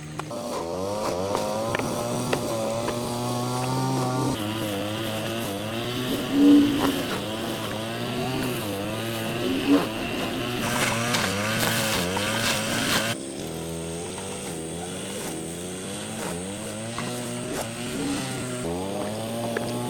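A small engine running, its pitch rising and falling constantly as the revs change. The sound changes abruptly about two-thirds of the way through.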